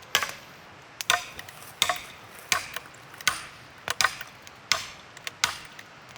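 An axe chopping into a log, a steady run of about nine sharp, ringing chops, one roughly every 0.7 seconds.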